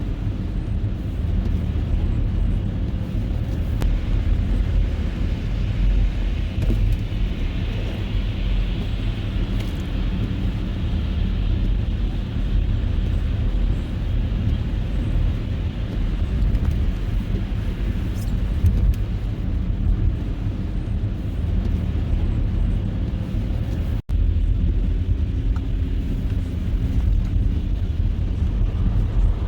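Car driving on a snow-covered road: a steady low rumble of engine and tyre noise. The sound drops out for an instant about 24 seconds in.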